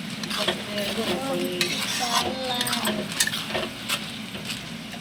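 Vegetables sizzling as they fry in a pan, with repeated scrapes and clinks of the utensil stirring them.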